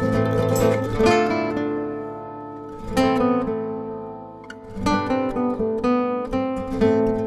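Background music: strummed acoustic guitar chords, each left to ring out and fade.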